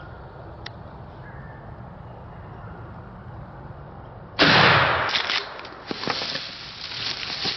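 A single loud shotgun shot about four and a half seconds in, dying away over a second, followed by irregular thumps and rustling.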